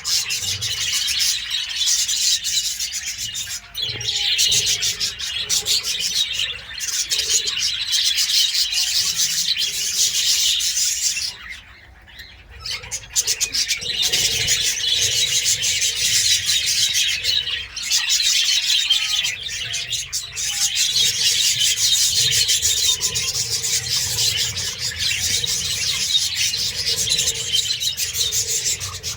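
A flock of budgerigars chattering and chirping without pause, with a brief lull about twelve seconds in.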